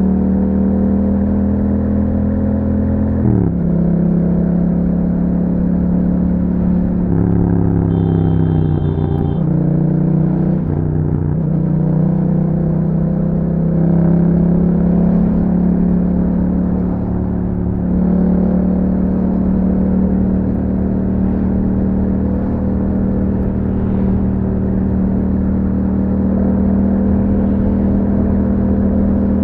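A 2021 Yamaha MT-07's 689 cc parallel-twin engine running through an Akrapovič exhaust while the bike is ridden. Its pitch drops sharply about three seconds in, rises and falls a few times between about seven and eleven seconds, then holds steady at cruise. A short high beep sounds around eight seconds in.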